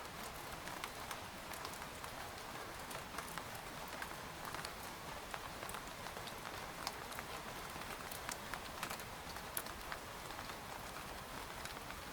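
Steady rain pattering on tent fabric: an even hiss with many separate drops ticking sharply throughout.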